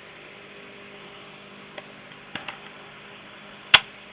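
A few light plastic clicks, then one sharp snap near the end as batteries are snapped out of their holder, over a faint steady hum.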